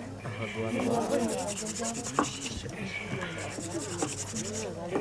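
Wooden fire-making sticks being rubbed against each other in a steady scratchy grind, the traditional friction method of lighting a fire. The wood is damp from rain, so no fire has caught yet. There is one sharp click about two seconds in.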